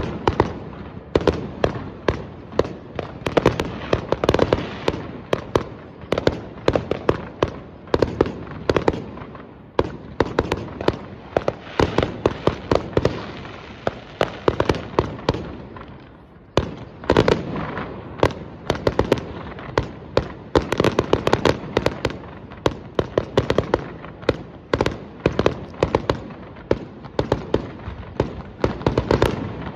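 Fireworks display: a rapid, continuous barrage of bangs and crackling shell bursts, easing off briefly about halfway through before a fresh volley starts.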